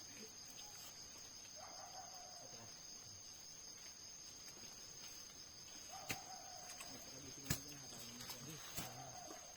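Faint animal calls, three times, each about a second long and falling slightly in pitch, over a steady high-pitched hum, with a couple of sharp clicks.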